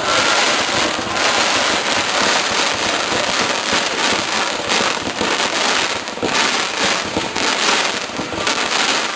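Starmine barrage of aerial fireworks: a dense, unbroken crackling and popping of shells bursting, with heavier bangs standing out now and then.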